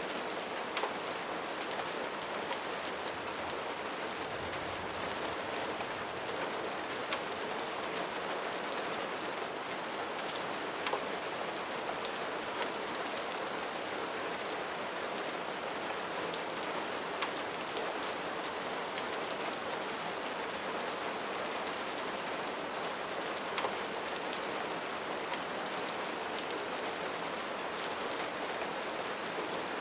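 Steady rain falling on a surface, an even hiss with a few scattered louder drop ticks.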